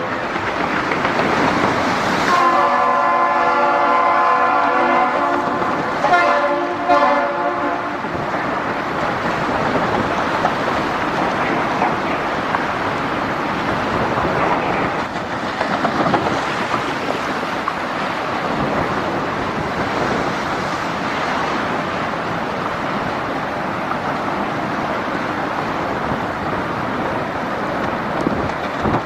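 Horn sounding a chord of several steady tones: a brief end of one blast right at the start, then long blasts from about two seconds in to about eight seconds. After that a steady rushing noise runs on.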